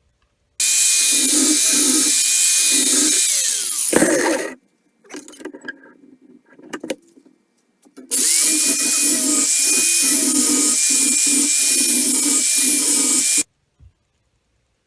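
Hand-held grinder grinding sheet-metal pieces, run twice for about four and five seconds, a steady high whine over a hiss. The pitch falls as the first run winds down and rises as the second starts up, with handling noise in between.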